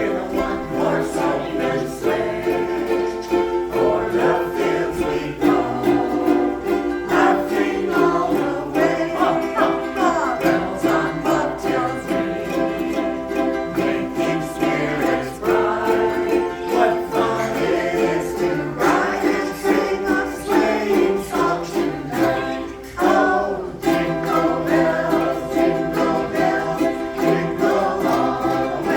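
A group of ukuleles strumming chords together in a steady rhythm, playing a tune.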